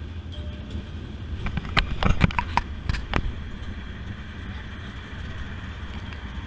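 Streetcar running with a steady low rumble. A quick run of sharp metallic clacks and knocks comes about two seconds in, then the rumble goes on.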